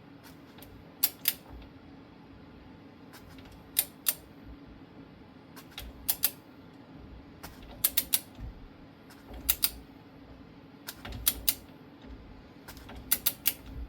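Ratchet of a large torque wrench clicking in short groups of two or three, about every one and a half seconds, as it is swung back between pulls on a Dana 44 differential's pinion nut being tightened toward 230 foot-pounds.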